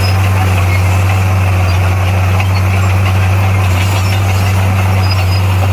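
Diesel engine of heavy earthmoving equipment running steadily, a loud constant low drone.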